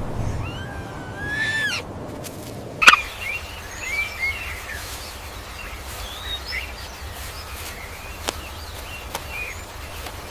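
Bird calls: a drawn-out gliding call in the first two seconds, then scattered short chirps, with one sharp click about three seconds in.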